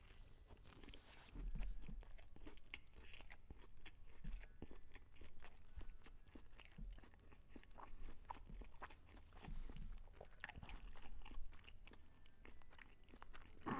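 A person biting into and chewing a McDonald's crispy fried chicken sandwich close to the microphone: a run of soft crunches and wet mouth clicks.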